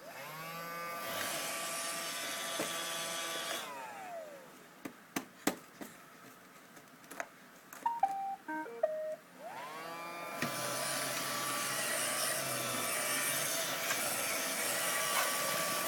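Vacuum cleaner motor spinning up with a rising whine and running, then switched off and winding down with falling pitch. A few clicks and knocks and some short squeaky tones follow, then the motor is switched on again, spins up and runs steadily.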